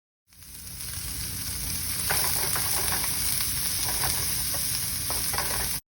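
Food frying in a hot pan: a steady sizzle with scattered crackles. It fades in just after the start, grows louder over the first couple of seconds, and cuts off abruptly near the end.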